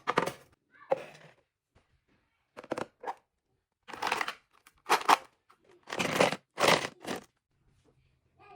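Close-miked crinkling and crunching in about seven short bursts, each under a second, with dead silence between them.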